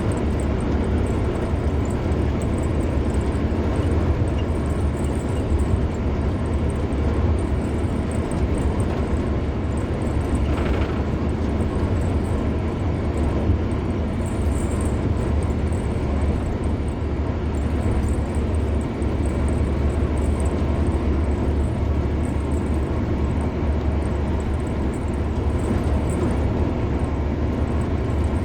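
Steady road noise of a car driving along a highway: tyres on asphalt and a deep, even rumble.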